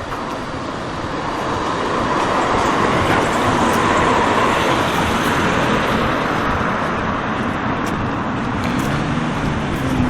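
Road traffic on a street, with a vehicle passing that is loudest about four seconds in.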